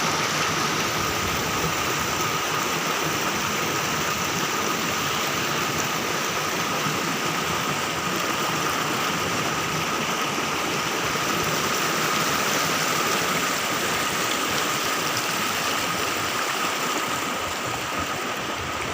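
Steady rush of a flowing river, an even unbroken noise, with a faint steady high tone underneath.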